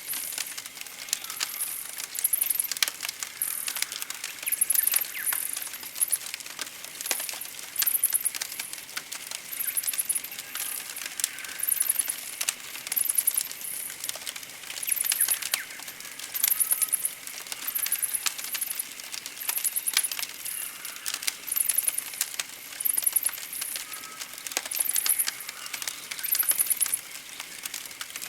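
Campfire crackling with many sharp, irregular pops. Over it, a very high, pulsing chirp repeats about every second and a half, with a few faint bird whistles.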